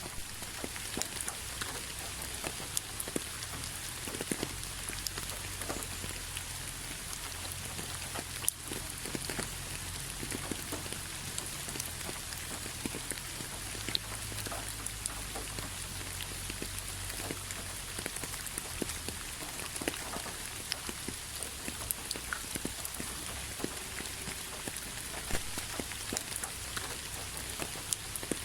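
Steady rain falling, an even hiss dotted with the sharp ticks of individual drops striking a surface, over a low rumble.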